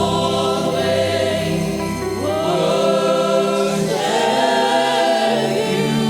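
Gospel choir singing long held notes, the pitch moving to new notes about two seconds and four seconds in.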